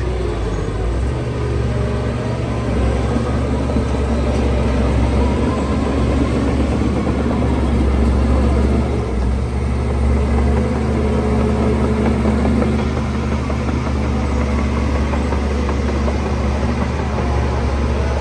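Heavy diesel engine of earthmoving equipment running steadily, a constant low drone.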